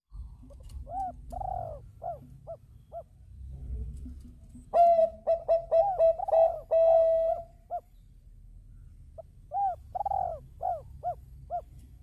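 Zebra doves (Bangkok-type perkutut) cooing in runs of short, arched notes. A louder, fuller bout comes about five seconds in and ends with a held note, and a softer series follows near the end.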